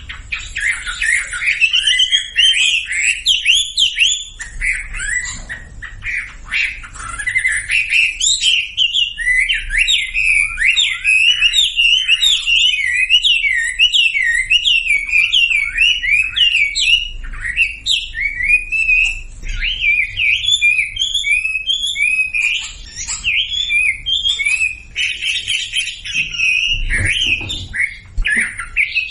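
Wambi songbird singing a continuous, rapid twittering song of quick rising and falling chirps and squeaky notes, with only brief breaks. This is a masteran song, used to coax silent wambi into singing.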